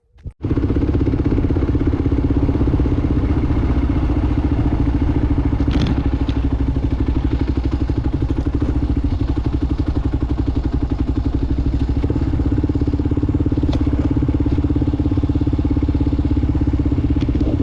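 Motorcycle engine running at a steady speed, with a couple of faint brief clicks.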